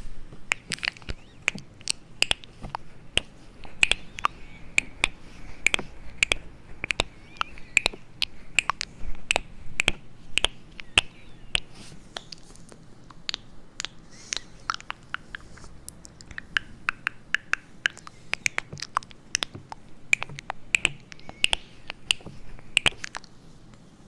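Close-up relaxation trigger sounds: a quick, irregular run of sharp clicks and taps, several a second, with a couple of brief pauses.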